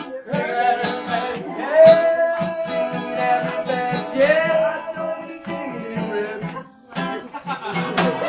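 Live band music: a strummed acoustic guitar with a singer holding long, wordless sung notes. It breaks off briefly near the end, then starts again.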